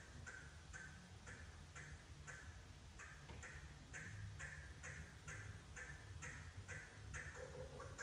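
A bird calling over and over, each short call repeated about twice a second at an even pace, with no break.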